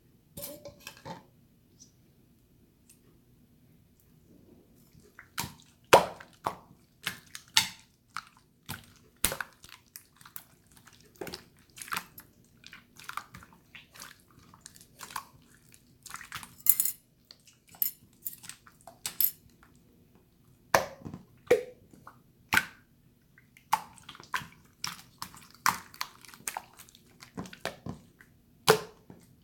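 Water slime being squished and played with by hand: a run of irregular wet clicks and pops, which starts about five seconds in after a brief quiet stretch.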